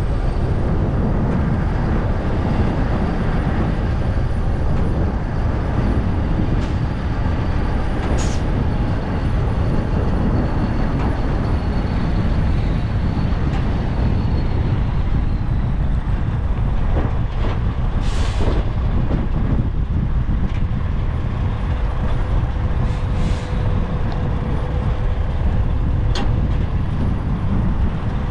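Strong wind buffeting the camera microphone, a loud, steady rumble with heavy truck engines running under it, broken by a few short hisses of air.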